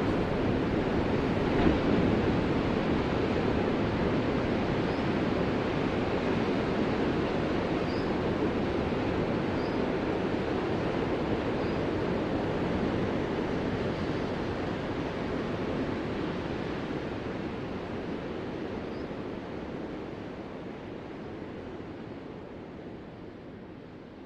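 Ocean surf: a continuous rush of breaking waves that swells up at the start and slowly fades away toward the end.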